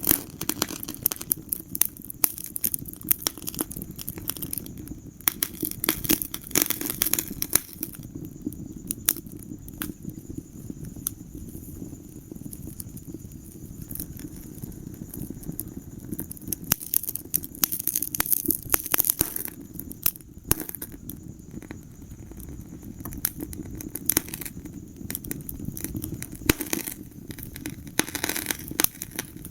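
Fireplace fire crackling: frequent sharp pops and snaps over a steady low rumble of the flames, with busier bursts of crackling now and then.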